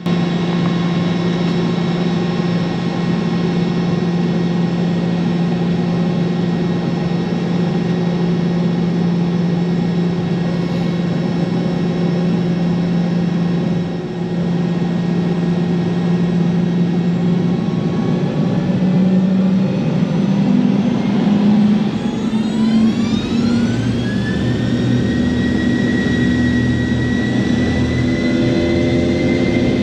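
Boeing 717-200's rear-mounted Rolls-Royce BR715 turbofan engines heard from inside the cabin: a steady engine hum, then about two-thirds of the way through a rising whine as the engines spool up. The whine settles into a high, steady tone, the engines at high power for the takeoff roll.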